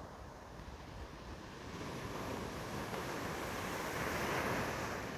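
Sea surf on a beach: a wave builds, breaks and washes up, loudest about four seconds in, then recedes.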